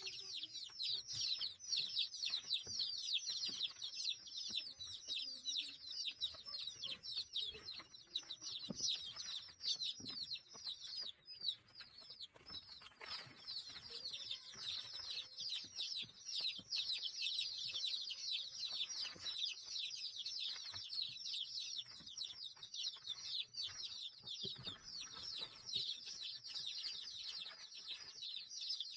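Many small birds chirping at once: a dense, unbroken chorus of short, high, falling notes, thinning briefly about eleven seconds in.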